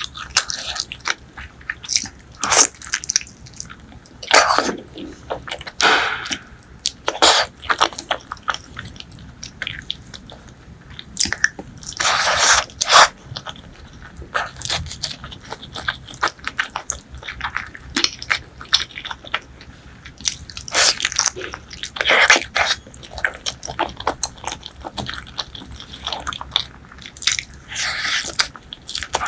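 Close-miked eating: chewing and wet mouth smacks of spicy pork leg curry and rice, with irregular bites and smacking sounds coming every second or so.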